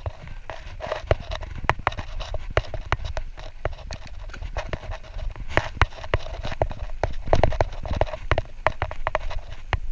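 Mountain bike rattling and clattering over rough trail, with many irregular sharp knocks and ticks from chain and frame, and low wind rumble on the microphone.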